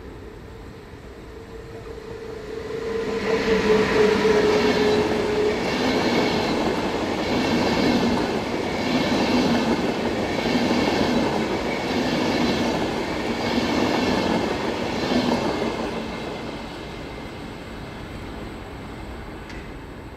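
Train passing close by, its wheels clattering over the rail joints in a regular beat about every second and a half. It builds up about three seconds in and fades after about sixteen seconds. A steady tone sounds over the first few seconds.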